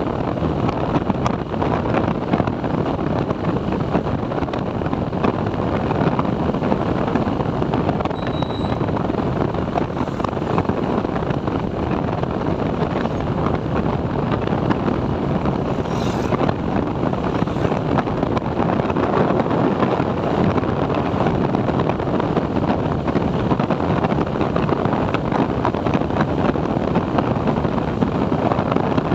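A TVS Apache 4V motorcycle running steadily on the move, with wind rushing over the microphone.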